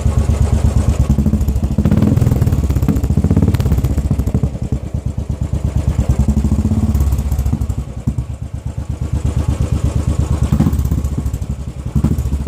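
Royal Enfield Classic 500's single-cylinder engine running through a modified Sans short bottle silencer packed with glass wool: a steady train of exhaust beats, swelling a few times as the throttle is opened and easing back between.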